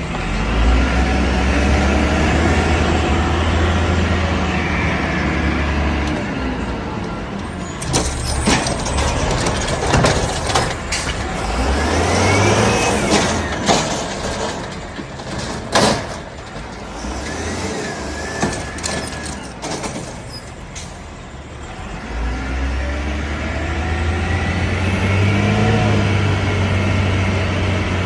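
Refuse truck engine revved hard to power the hydraulics for the cart-dumping arm on a recycling route. Loud clanks and clatter from a cart being lifted, shaken out and set down come in the middle, with a rising hydraulic whine, and the engine revs up again near the end.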